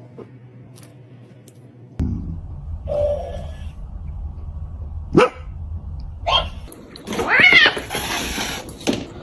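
A pet's calls: a few short cries, then a louder, longer call that rises and falls in pitch near the end.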